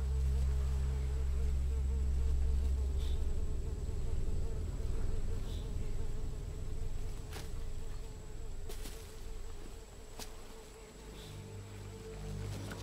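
Flies buzzing steadily, over a low drone that is strongest at first and fades through the second half.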